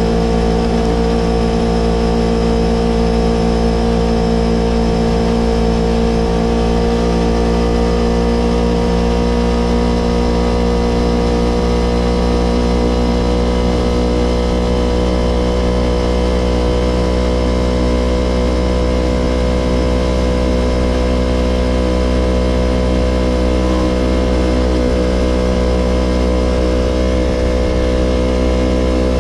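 Yamaha R25's 250 cc parallel-twin engine idling steadily through a Villan Pro 2 aftermarket exhaust.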